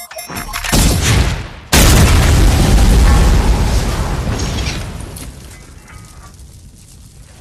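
Rocket launcher sound effect: a rushing whoosh that swells for about a second, then a sudden loud explosion, its deep rumble fading over the next few seconds.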